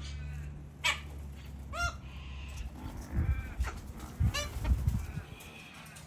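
A bird calling: three short calls, the last about four seconds in, with fainter calls between them. A run of low thumps comes about three to five seconds in.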